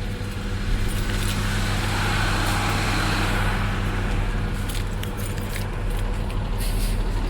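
Vehicle engine idling steadily, with a rushing hiss that swells and fades for a couple of seconds in the middle.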